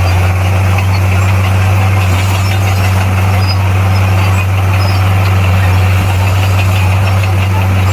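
Heavy diesel engine of earthmoving equipment running steadily at an even speed, a deep constant drone without revving.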